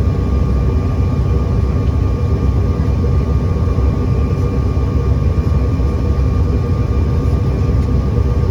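Steady cabin noise inside an American Eagle airliner: the engines and air system running as a constant low drone with a few faint steady tones, unchanging throughout.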